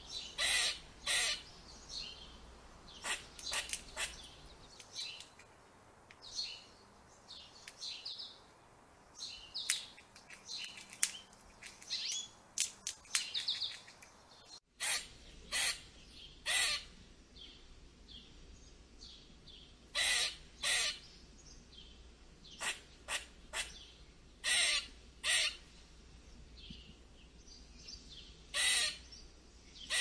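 Squirrel alarm calls: short, harsh barks and chatters, some single and some in quick clusters, over faint higher chirps. A brief dropout about halfway through breaks the recording.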